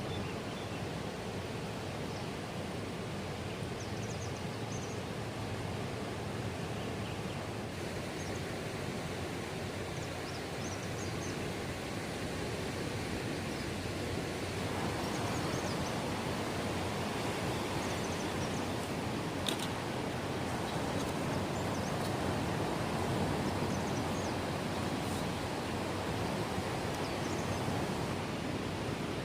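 Steady, even hiss of outdoor night ambience that swells a little about halfway through, with faint short high chirps now and then and a single sharp click about two-thirds of the way in.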